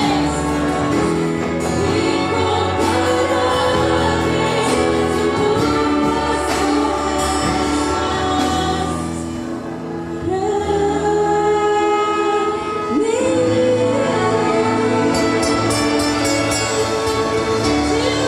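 A choir or congregation singing a gospel hymn with instrumental accompaniment, dipping briefly about halfway through before the singing comes back in.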